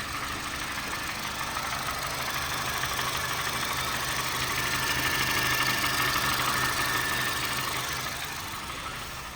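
Honda Fit GD3's four-cylinder engine idling with a fast, steady clicking and ticking from the top of the engine, the valve clatter that the owner puts down to valves badly in need of adjustment. It grows louder toward the middle and eases off near the end.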